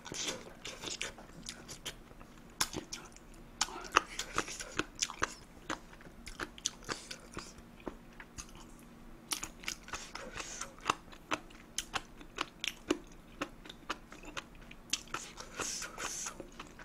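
A person chewing kimchi and fried rice close to the microphone: crunchy, smacking bites with many sharp clicks at an irregular pace.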